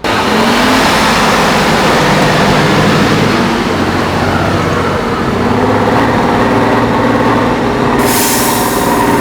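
Heavy off-road trial truck's diesel engine working hard, its pitch rising and falling as the revs change. A short burst of hiss comes near the end.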